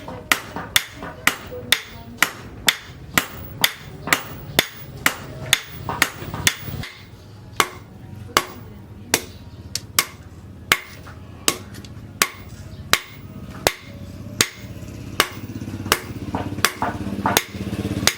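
Hammer blows on the steel of a disc-plough blade being forged on an anvil, about two a second, each blow ringing briefly. A low steady hum runs underneath.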